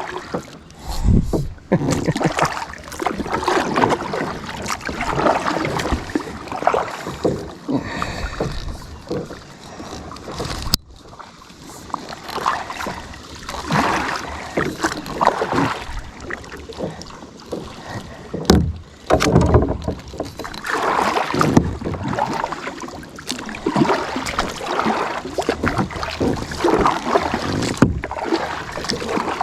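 Kayak paddle strokes dipping and splashing in lake water, coming in an uneven rhythm every second or two.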